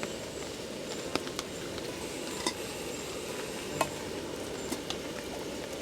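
Food cooking in a pan over a camp flame: a steady low rushing, with faint sizzling and scattered sharp crackling pops about a second apart.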